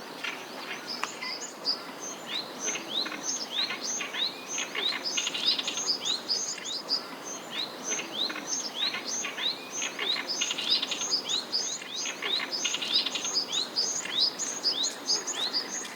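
Oriental reed warbler singing a harsh, chattering song of quick rising notes mixed with grating rattles, run on without pause.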